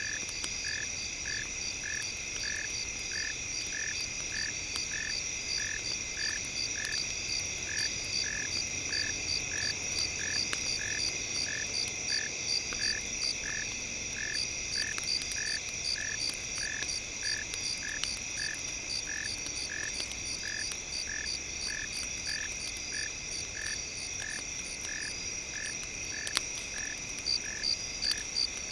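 Night nature ambience: a chorus of calling frogs and insects, one caller repeating a short pulsed note about two and a half times a second over a steady high-pitched trill. Faint, scattered campfire crackles come through underneath.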